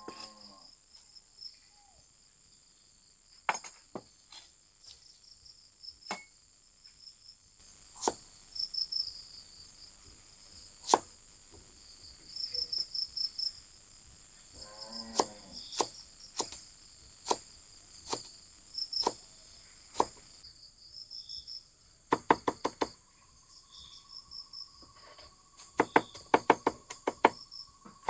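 Insects chirping steadily and high-pitched, with scattered sharp knocks and taps. The knocks come in quick runs of several strikes about two-thirds of the way in and again near the end.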